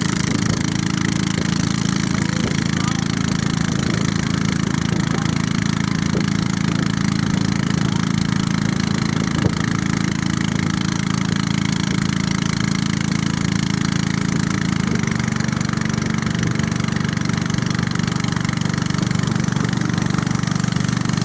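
Small boat's motor running steadily under way, its tone shifting slightly about two-thirds of the way through.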